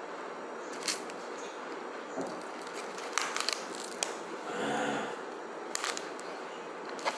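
Eating sounds: a mouthful of fried beef liver being chewed, with a few sharp clicks from the plastic fork and foil takeaway tray, and a brief hum about two-thirds of the way through.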